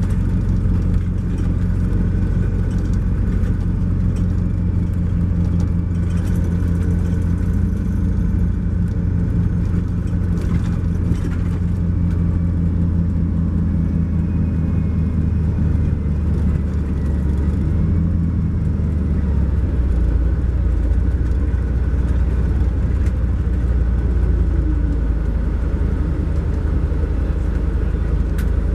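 Cummins ISX12 diesel engine of a 2012 MCI J4500 coach running under way, heard from on board as a steady low drone; about two-thirds of the way through the engine note drops and deepens.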